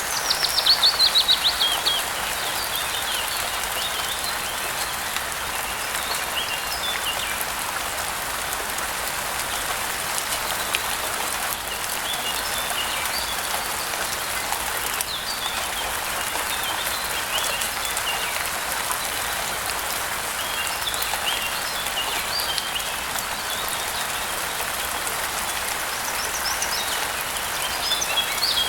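Steady rain falling, with songbirds chirping over it. At the start a loud, quick trill of notes falls in pitch, and scattered chirps recur throughout, with another burst near the end.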